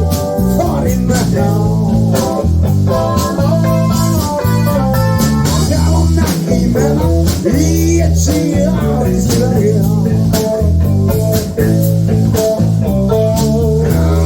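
A live band playing a bluesy passage with no clear singing: a guitar playing a bending melodic line over bass guitar and steady drum hits.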